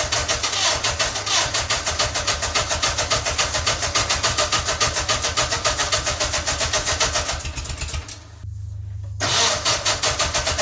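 Onan NHC two-cylinder engine turning over under the starter in extreme cold, chugging in an even rhythm. About eight seconds in it stops briefly, leaving a low hum, then turns over again for about two seconds and cuts off. The engine starts hard: it is very cold and cylinder 1 has almost no compression because its intake valve seat is coming loose.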